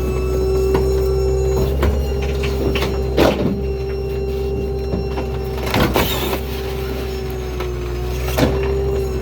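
Small rear-load garbage truck running with a steady whine over its engine hum. Sharp clanks and bangs land three times, about three, six and eight and a half seconds in, the first two the loudest.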